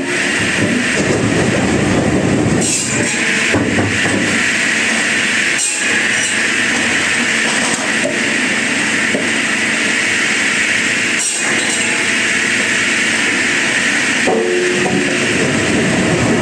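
Wood-processing machinery running steadily under load, a continuous mechanical noise with a few brief knocks.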